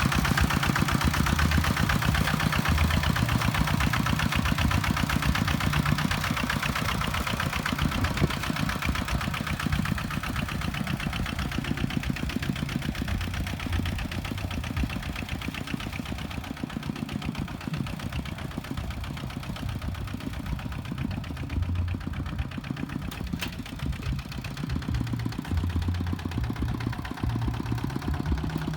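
Kubota tractor engine running steadily, its firing pulses fading somewhat through the middle and growing louder again near the end.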